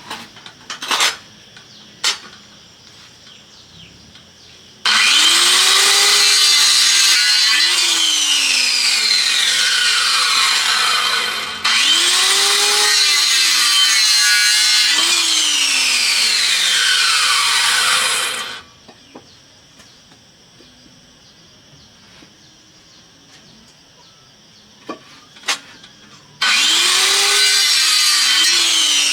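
Power saw cutting wood in three long runs of about six to seven seconds each. Each run starts suddenly, with a whine that falls in pitch as it goes, and a few sharp knocks come in the quieter gaps between.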